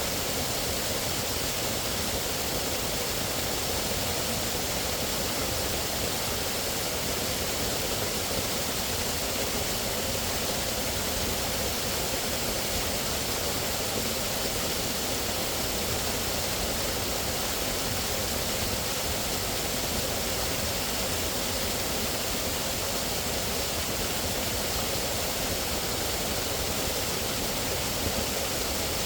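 Running water rushing steadily and evenly, with no change in level.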